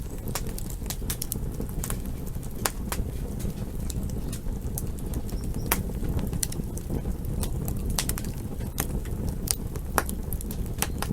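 Campfire crackling: irregular sharp pops and snaps of burning wood over a steady low noise of the fire.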